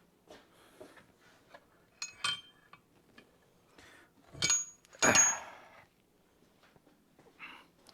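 Metal tools and engine parts being handled on a workbench: scattered light clinks and knocks, with two louder metallic clanks about halfway through that ring briefly.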